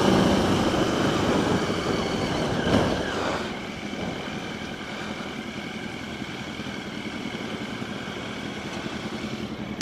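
Motorcycle engine running with road and wind noise while riding, easing off about three seconds in and then running steadily at a lower level.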